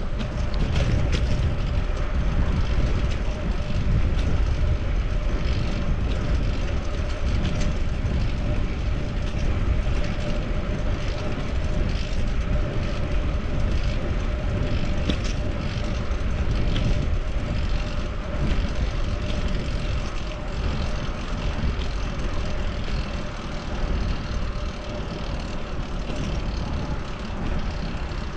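Wind rumbling on the microphone of a bike-mounted camera while riding a fixed-gear bicycle, with road traffic around and a steady hum underneath.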